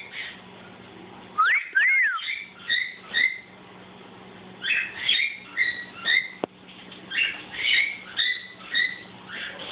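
Cockatiel singing: a run of short whistled notes and chirps, pitches gliding up and down, with a couple of brief pauses.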